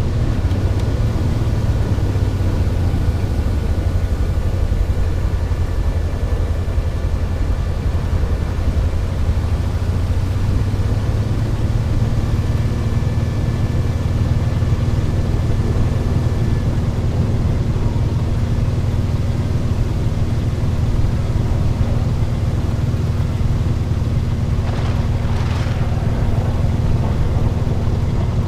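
Tornado roar: a loud, steady deep rumble with faint high whining tones through roughly the first half, and a brief hiss about 25 seconds in.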